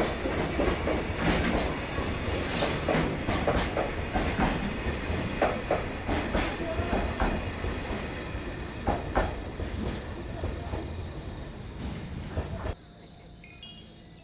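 A train passing close by: a heavy rumble with repeated wheel clacks over rail joints and a steady high wheel squeal. Near the end the sound cuts off abruptly to quiet insect chirring.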